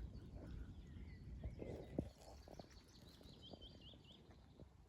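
Faint small-bird song outdoors: a short run of high, quick notes about three and a half seconds in, with fainter chirps before it. Soft rustling and a light knock about two seconds in.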